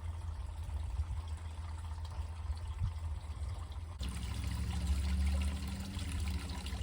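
Water trickling over a steady low rumble; about four seconds in, the sound changes abruptly and a low steady hum joins.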